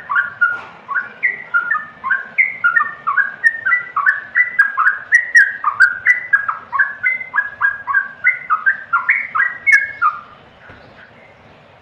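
Yellow-vented bulbul (trucukan) singing a fast run of short notes that swoop up and down in pitch, about four a second, stopping abruptly about ten seconds in.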